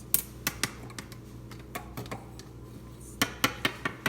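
Buttons pressed on a keypad to type in a number: about a dozen short sharp clicks, spread out at first and coming quicker in a cluster near the end.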